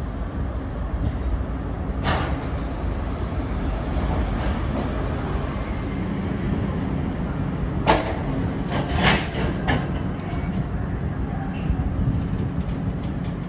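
Passenger train pulling in along a station platform: a steady low rumble as the carriages roll slowly past. There is a sharp click about two seconds in and a cluster of sharp clicks and squeaks a little past the middle.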